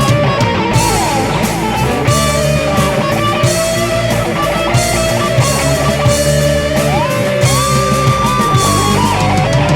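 Electric guitar solo over a full rock band backing: a lead line with bent and sliding notes, rising to a long held high note about seven seconds in.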